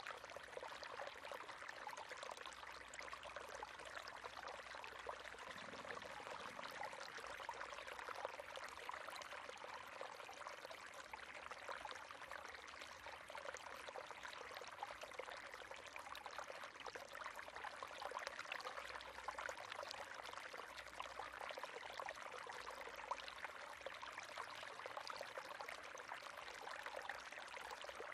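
River water running and splashing over stones, a steady bubbling rush with fine crackle.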